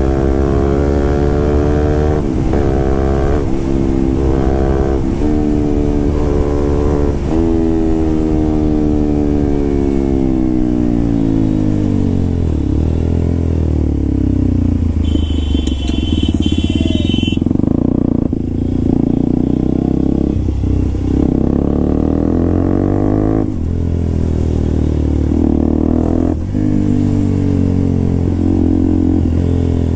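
Motorcycle with an SC Project aftermarket exhaust being ridden: it revs up through several quick gear changes, then winds down in a long falling glide and runs on with smaller rises and dips. A high steady tone sounds for about two seconds midway.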